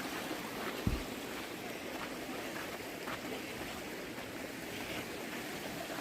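Steady rush of running stream water, with a short dull thump about a second in and a few faint ticks.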